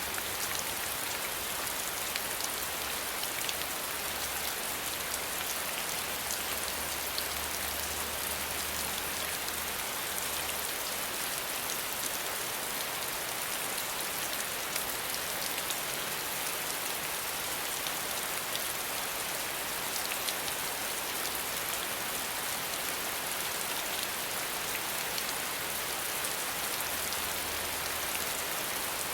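Steady rain falling, with many small raindrop patters on a surface.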